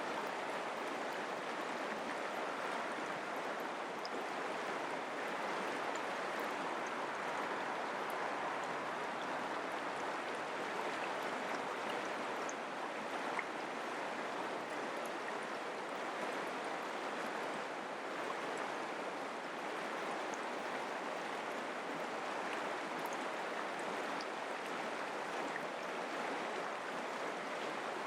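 Mountain creek flowing over rocks: a steady, even rushing of water with no breaks.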